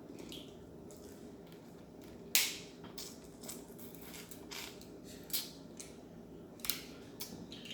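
Crab leg shells cracking and snapping as they are broken open by hand: a string of sharp, uneven cracks, the loudest about two and a half seconds in.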